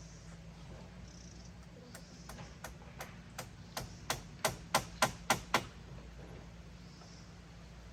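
A run of about a dozen sharp knocks, starting about two seconds in, coming faster and louder, then stopping abruptly just past the middle, over a steady low hum.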